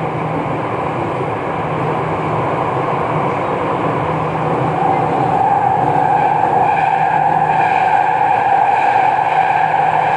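MRT Jakarta metro train running, heard from inside the car: a steady rumble with a whine from the running gear that grows louder about halfway through.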